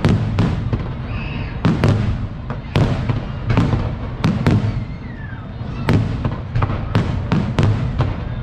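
Fireworks display: aerial shells bursting in a rapid, irregular run of bangs, about two a second, with a short lull about five seconds in, over a steady low rumble.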